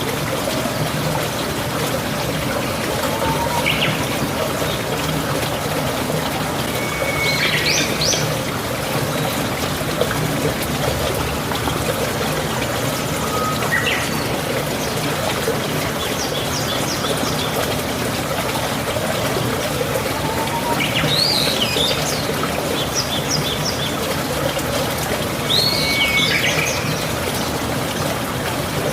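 Running water flowing steadily, with birds chirping in short calls every few seconds over it.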